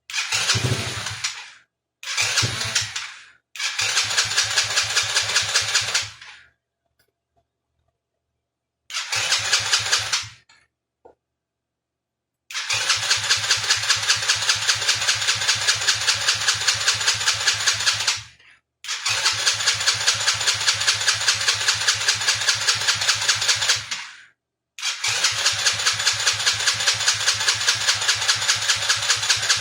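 Starter cranking the 110cc four-stroke engine of a Chinese kids' four-wheeler in seven separate tries, each an even chug of about four beats a second, lasting from under two seconds to about six. The engine turns over but does not catch and run, a sign of a carburettor fuel-mixture problem.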